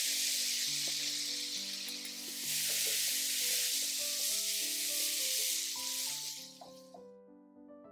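Maitake mushrooms sizzling as they fry in a hot pan, stirred now and then with a few light clicks. The sizzle stops about three-quarters of the way through, leaving soft piano music.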